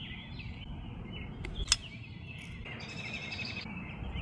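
Wild birds chirping and calling, with a faster trill about halfway through, over a low outdoor rumble. A single sharp click cuts in a little before halfway.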